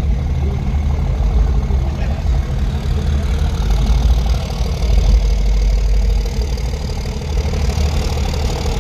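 A truck engine idling steadily with a deep, low rumble.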